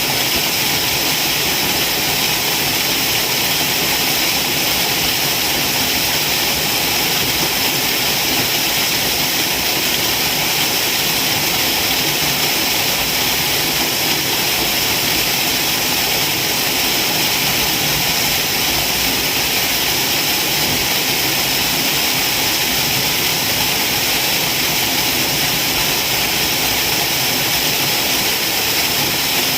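Waterfall, water pouring and rushing in a steady, unbroken hiss.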